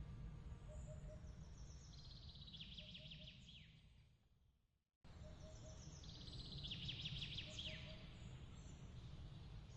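A songbird singing a quick trilled phrase of sweeping notes, twice, over a faint low rumble. Midway the sound fades out to silence and cuts straight back in, and the same bird phrase repeats: a looped ambience recording.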